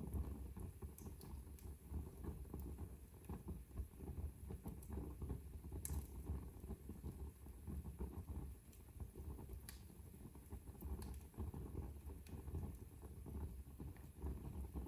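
Wood fire burning in a fireplace: a low steady rumble of flames with scattered sharp crackles and pops, the biggest about six seconds in and again near ten seconds.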